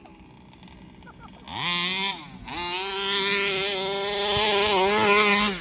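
29cc two-stroke engine of a 1/5th scale petrol RC buggy, fitted with a tuned exhaust pipe. It runs low at first, then revs up sharply about a second and a half in, eases off briefly, and is held at high revs before dropping off near the end.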